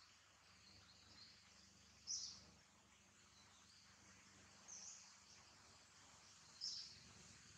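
Near silence of quiet outdoor ambience, broken by a bird's short high chirp three times, a couple of seconds apart.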